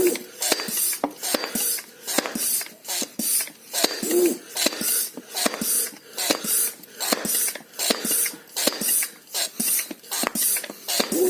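High-pressure hand pump being worked in a steady rhythm of quick strokes, each with a hiss of air, filling a steel PCP airgun tank. The person pumping pants heavily, with a few voiced breaths standing out about four seconds in and near the end.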